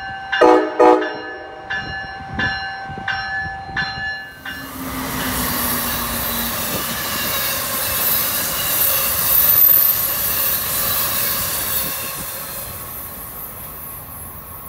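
Amtrak passenger train sounding its horn in a quick series of short blasts over the first four seconds, then rushing past at speed with a loud hiss of wheels and air that peaks and then fades away.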